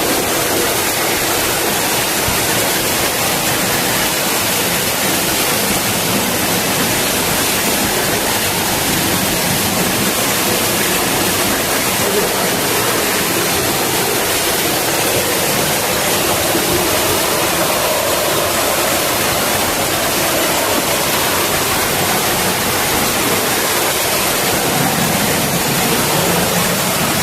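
Loud, steady rush of flowing water from a stream.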